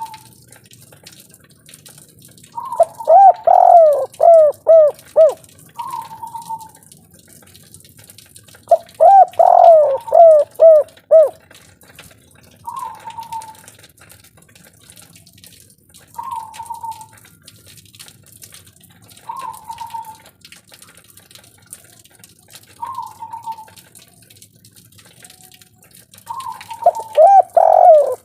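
Spotted dove (derkuku, 'kuk 3' type) cooing: two full song phrases of several falling coos about 3 and 9 seconds in, and a third starting near the end. Short single notes come every few seconds between them.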